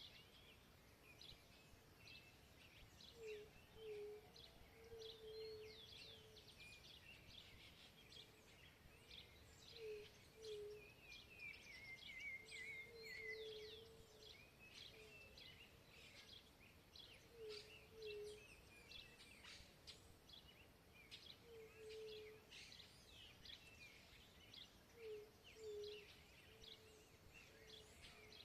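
Faint chorus of several wild birds: many quick, high chirps and trills throughout, and a low cooing call, often two notes, repeated every few seconds.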